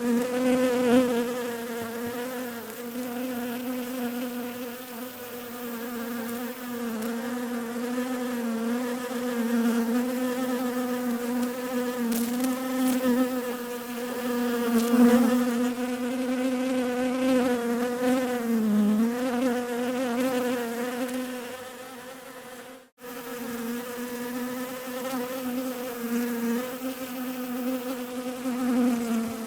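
Bees buzzing: a steady hum that wavers slightly in pitch. It cuts out for a split second about three quarters of the way through.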